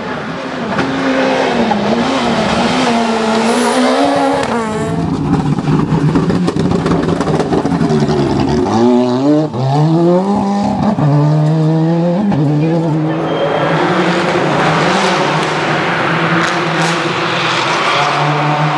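Rally car engine working hard: the note wavers, then climbs and drops in several quick sweeps as it shifts up through the gears, and settles to a steady pitch with a loud hiss rising over it in the second half.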